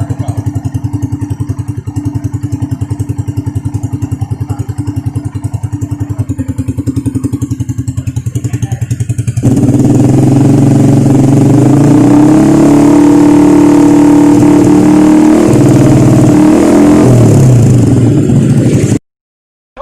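Yamaha M-Slaz's single-cylinder engine through an 18-inch Akrapovic exhaust, idling with a quick, even putter, then revved hard about halfway through and held at high revs for several seconds for a loudness test before easing off; the sound cuts off suddenly near the end.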